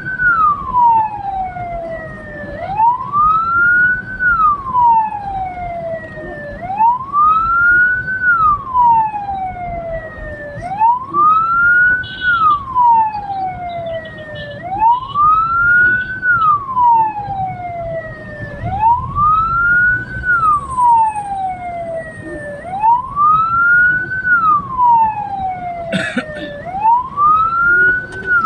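Hearse's electronic siren wailing in a steady cycle, each a quick rise in pitch then a long slow fall, about once every four seconds, over low vehicle rumble. A brief sharp knock comes near the end.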